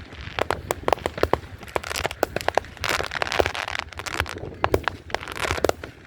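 Fireworks going off: a rapid run of sharp pops and bangs, several a second, with crackling stretches about three seconds in and near the end.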